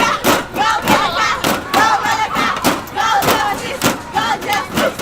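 A group of children shouting and chanting together, with repeated sharp thumps scattered through.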